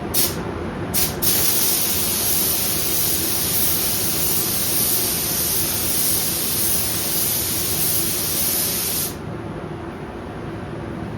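Paint spray gun spraying a coat of clear coat: two short trigger pulls, then one steady hiss for about eight seconds that cuts off sharply when the trigger is released, over a steady low hum.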